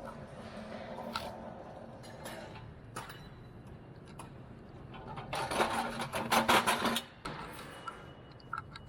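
A machine with a humming motor running with a rattling clatter. It grows much louder for about two seconds past the middle, then drops back, with a few sharp clicks near the end.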